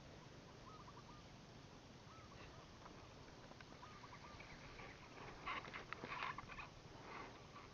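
Faint, quiet ambience with a bird's short chirping notes repeating every second or two, then a brief spell of rustling about two-thirds of the way through.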